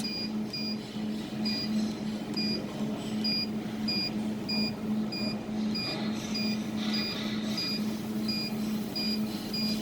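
Jewelry laser welding machine beeping steadily, about two short high beeps a second, over a steady low machine hum, while the laser focus support is driven to a new position during focus calibration.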